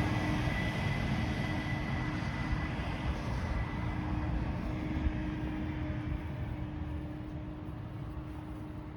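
Yanmar AF26 compact tractor's 26 hp diesel engine running steadily, growing gradually fainter.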